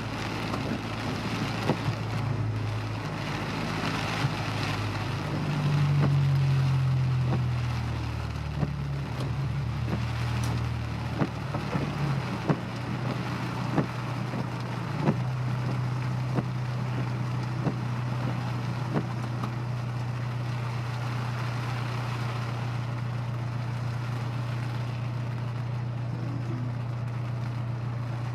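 Honda S2000's four-cylinder engine running at road speed with steady road and rain noise. The engine note rises and changes about six seconds in, then holds steady while cruising, and scattered sharp ticks come through.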